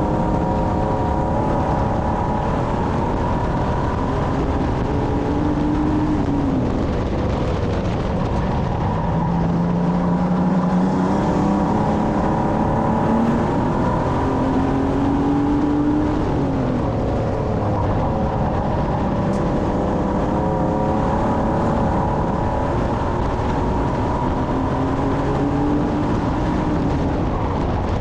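Stock car engine racing, heard from on board, its pitch climbing under acceleration and dropping back again several times as it works along the straights and lifts for the corners, over constant loud rumble and road noise.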